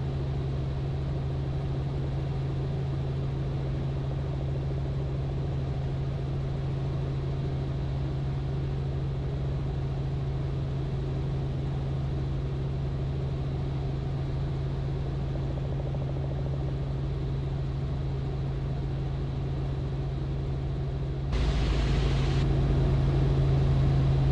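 Robinson R44 helicopter in flight: the steady low drone of its engine and rotor, growing louder about 21 seconds in with a brief hiss.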